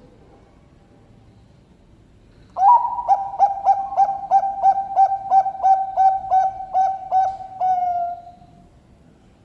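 Zebra dove (perkutut) of the Bangkok competition line singing one song: a quick run of cooing notes, about three a second, ending in a drawn-out note that fades away.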